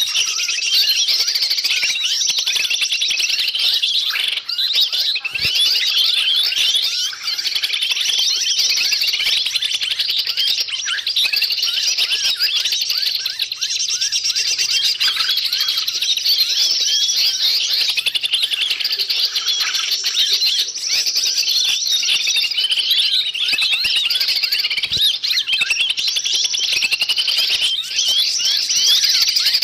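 A dense, noisy chorus of many small forest birds chirping and calling at once, rapid overlapping high chirps without a break. This is a bird-lure (pikat) recording of excited birds, used to draw wild birds in.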